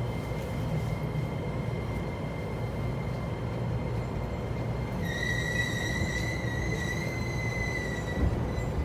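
E231 series electric train running with a steady low rumble and a thin high whine; about five seconds in a louder high squeal sets in, typical of the brakes as the train slows to a stop.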